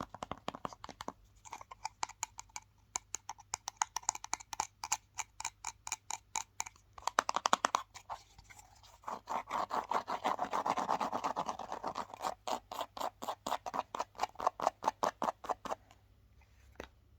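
Fast scratching and tapping on a hard object's surface, in rapid strokes of about four or five a second, with a stretch of continuous scratching in the middle. It stops shortly before the end.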